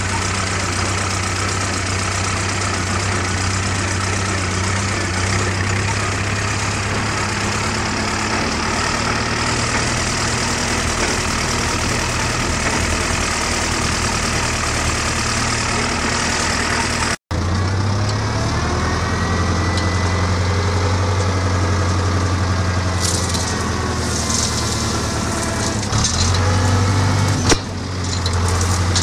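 Someca 750 DT tractor's diesel engine running steadily at idle. There is a sudden brief dropout about two-thirds of the way through, after which the engine keeps running with a slightly shifting note.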